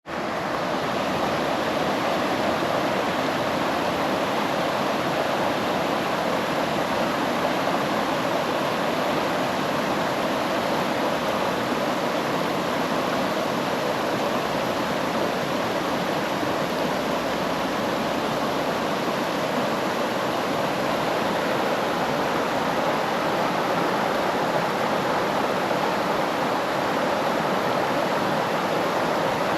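Steady rush of flowing water, an even unbroken hiss with no change throughout.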